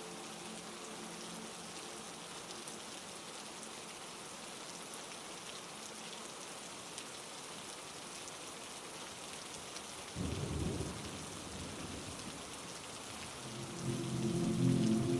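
Heavy rain, a steady hiss with fine drop ticks. About ten seconds in comes a sudden short low crack of thunder. Near the end a louder low rumble with a steady hum in it builds up.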